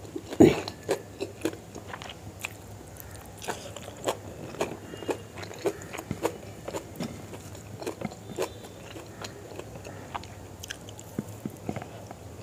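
Close-miked chewing and biting of a mouthful of rice and chicken liver and gizzard curry eaten by hand: irregular wet mouth clicks and smacks several times a second, with one louder bite about half a second in.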